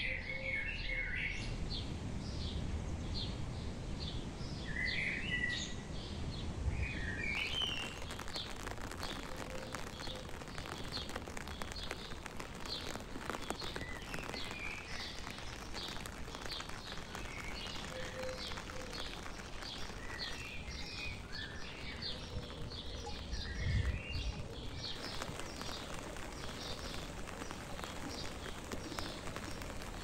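Birds chirping: short high chirps repeating about twice a second, with other bird calls now and then over a steady outdoor hiss.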